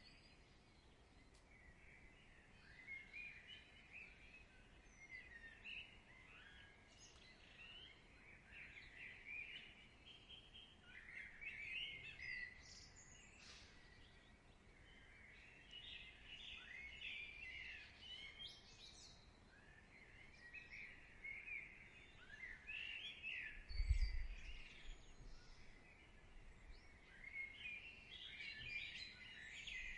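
Faint birdsong: many short chirps from small birds over a soft background hiss, with one brief low thump toward the end.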